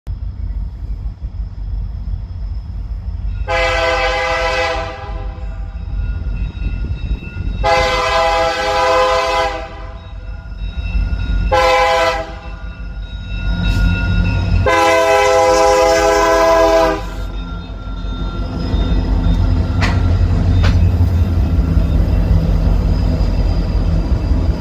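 Freight train locomotive sounding its multi-chime air horn in the long-long-short-long grade-crossing pattern over a steady low engine rumble. After the last blast the rumble grows louder as the train passes, with a few faint wheel clicks.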